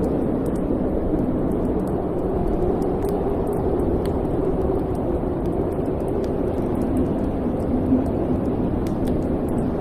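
Wood fire burning in a fireplace: a steady low rumble of flame with scattered faint, sharp crackles throughout.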